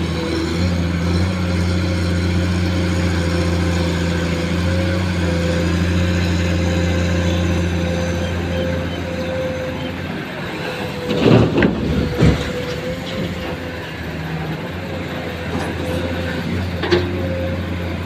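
A heavy engine running steadily with a low hum, with a cluster of loud knocks about eleven seconds in and a single sharp click near the end.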